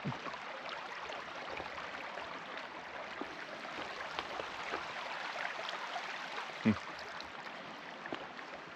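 Shallow creek water running over stones in a steady rush, with faint scattered ticks and one short low sound about two-thirds of the way through.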